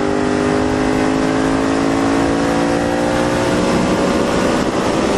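Motorcycle riding at speed: heavy wind rush on the microphone over a steady motor tone that rises slowly in pitch. It cuts in suddenly at full loudness.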